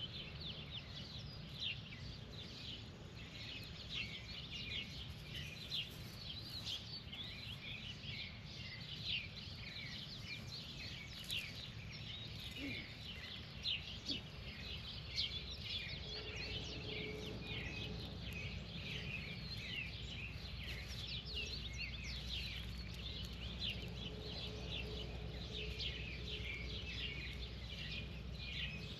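Many birds chirping continuously, with short, quick notes overlapping one another, over a steady low background rumble.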